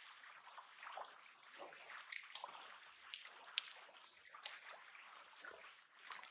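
Seawater washing and trickling at the shoreline, with many small sharp ticks and splashes, the sharpest about three and a half seconds in.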